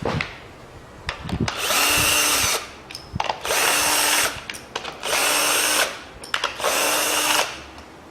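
Cordless power driver run in four short bursts of under a second each, with light clicks of handling between them: undoing the fasteners on top of a four-cylinder engine, likely the ignition coil bolts before the valve cover comes off.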